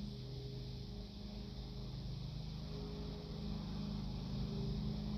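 A low, steady droning hum with a few held low tones that swell and fade.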